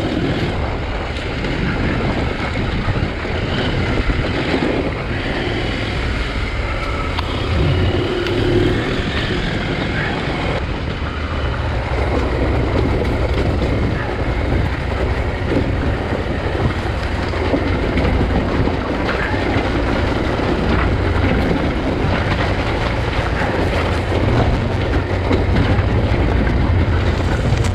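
KTM 890 Adventure R's parallel-twin engine running as the bike is ridden back down a dirt trail, under a steady low rumble.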